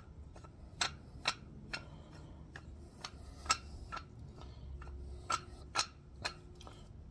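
Scattered light clicks and taps, about ten of them at irregular intervals, over a faint low hum.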